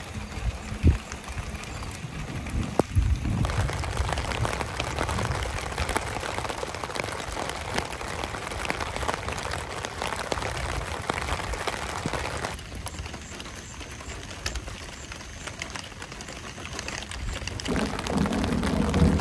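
Rain falling on a tent's fly and a car window: an even hiss of drops that shifts in tone a few times, with a couple of sharper taps in the first few seconds.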